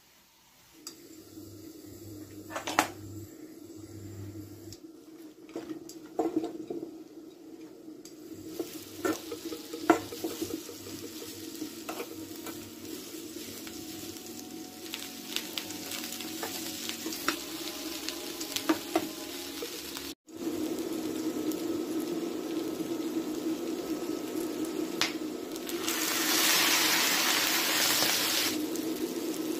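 Food sizzling as it fries in a pan, with scattered sharp clicks of a utensil stirring and knocking against the pan. The hiss breaks off for an instant about two-thirds through and swells louder for a couple of seconds near the end.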